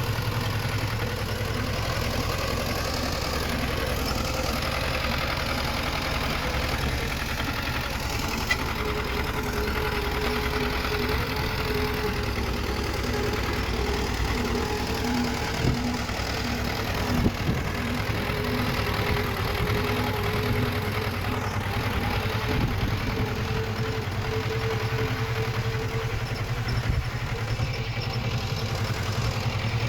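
Diesel engine of heavy earthmoving machinery running steadily at a constant pitch, with a few short metallic clanks, the loudest about 17 seconds in.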